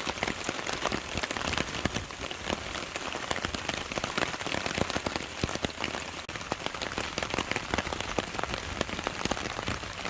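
Heavy rain falling steadily, drops hitting the tarp overhead as many separate sharp taps over a constant hiss.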